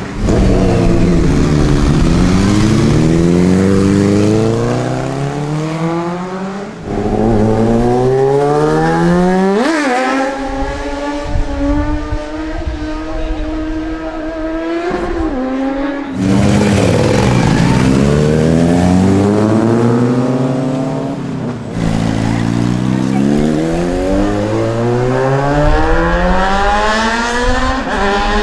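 Sport motorcycle engines revving hard. The pitch drops, then climbs again and again, with sudden breaks as the gears change. About ten seconds in, the pitch spikes and then holds steady for around six seconds before the engine winds up through the revs again.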